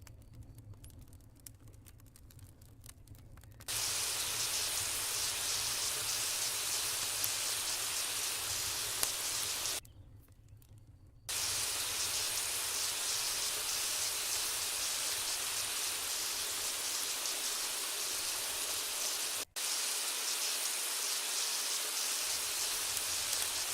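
Steady hiss of food sizzling in hot oil in a pot over a campfire. It starts abruptly about four seconds in after a few quiet seconds of faint crackles, and cuts out briefly twice.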